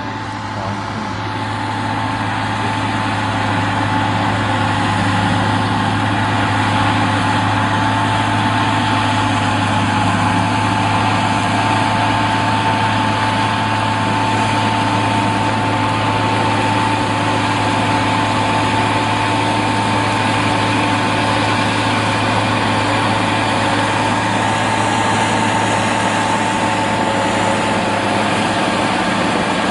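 Tractor engine running steadily at working revs, growing louder over the first few seconds and then holding an even drone.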